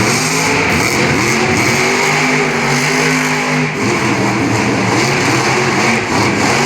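Monster truck engine revving hard, its pitch climbing and dropping over and over, with short stretches held steady.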